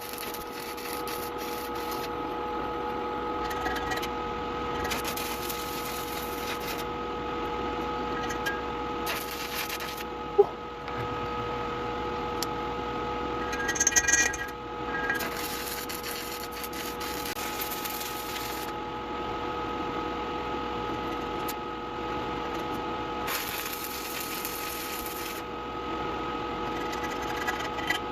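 Sped-up workshop sound from stick-welding work: a steady hum with stretches of hissing crackle lasting a few seconds each, and a single sharp click about ten seconds in.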